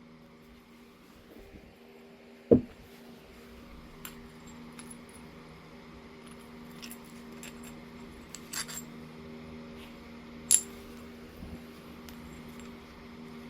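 Flintknapping on Oregon jasper: a few scattered, sharp clicks and clinks of a tool striking or pressing the stone, the loudest about two and a half seconds in and another near ten seconds. A steady low hum runs underneath.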